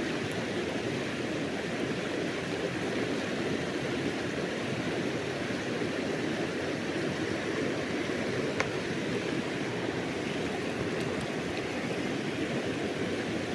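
Steady sound of a flowing river, with one brief click about two-thirds of the way through.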